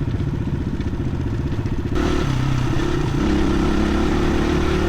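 Dirt bike engine running under way, its exhaust pulsing steadily, then getting louder and brighter about two seconds in as the throttle opens.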